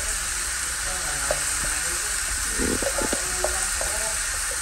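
Squash, long beans and crabs sizzling in a wok over a gas flame, a steady hiss. A few short light knocks and taps come in a cluster about midway.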